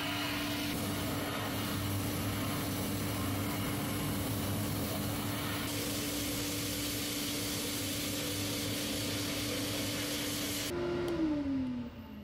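An electric power tool's motor runs steadily with a hiss over it. Near the end the hiss stops suddenly, the motor's pitch rises briefly as the load comes off, then falls as it is switched off and winds down.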